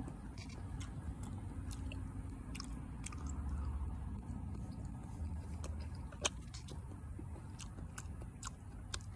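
A person biting and chewing the soft flesh of a cactus fruit, with scattered wet mouth clicks and smacks; one sharp click about six seconds in is the loudest.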